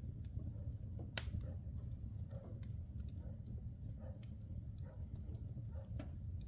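Logs burning in a wood fireplace, crackling with irregular sharp pops, the loudest about a second in, over a low steady rumble.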